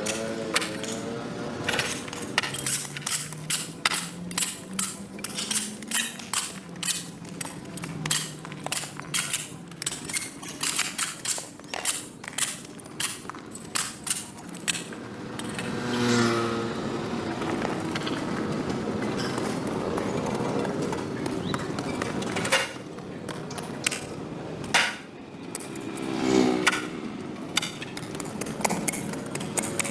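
A hand tool knocking and scraping on pavement in a quick run of sharp strikes, several a second, for about the first half. After that comes a steadier rough noise, with falling pitched sweeps about halfway through and again near the end.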